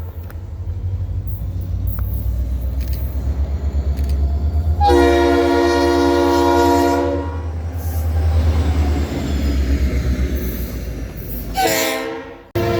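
Diesel locomotive running with a low rumble and sounding its multi-chime air horn: one long blast of about two seconds, then a shorter blast near the end.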